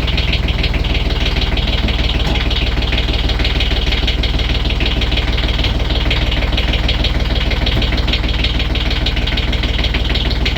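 Brand-new Beta Marine 20 three-cylinder marine diesel idling steadily with an even diesel clatter, just after its first start.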